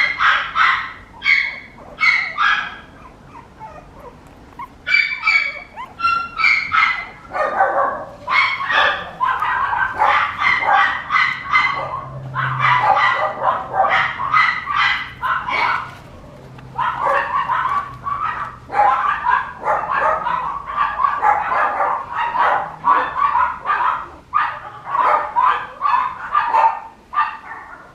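Papillon puppy yapping: rapid runs of short, high-pitched yips and barks, with brief pauses about four seconds in and again past the halfway point.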